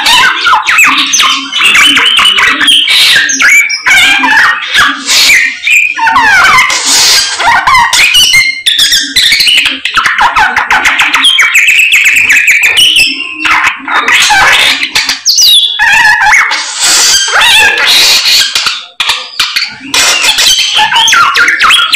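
A samyong bird singing continuously and loudly: a long run of varied chattering, whistles and rapid trills that breaks off only briefly a few times.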